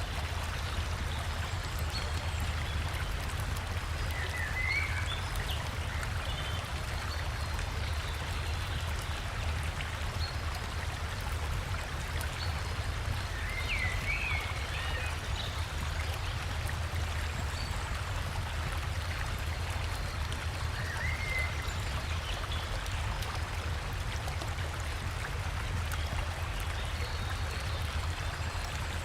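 River water and a small waterfall flowing steadily with a low rush, with a handful of short forest bird chirps scattered through.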